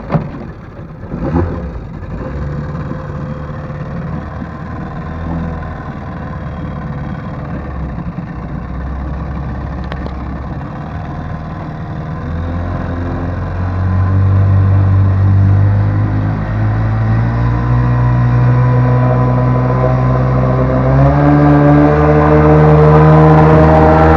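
Vikhr two-stroke outboard motor driving a Veter water-jet unit, coming in abruptly with a couple of sharp knocks, then running steadily. From about halfway through the throttle is opened in steps and the engine note rises and grows louder, the boat getting under way since the jet drive has no neutral.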